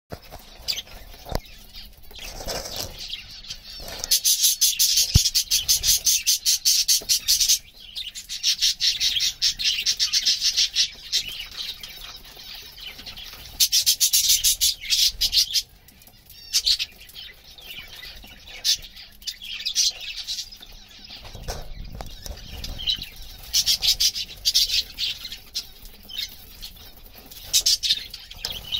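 Lovebirds chattering in rapid, shrill chirps, in loud bouts of a few seconds with quieter chirping between.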